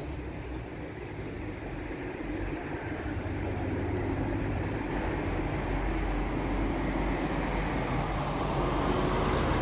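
Wind blowing across the microphone: a continuous low rumbling rush that grows gradually louder.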